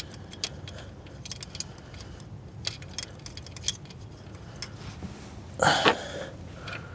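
Scattered light clicks and small metallic clinks of a new ignition coil pack and its bolts being handled and set in place on the engine, with a brief louder rustle about five and a half seconds in.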